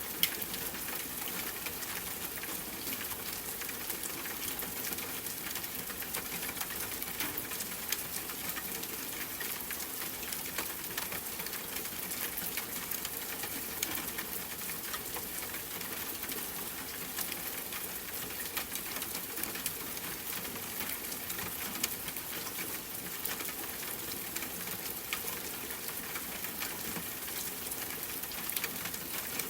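Steady rain, an even hiss with a dense patter of individual drops. A couple of single louder drop clicks stand out, one just after the start and one about 22 seconds in.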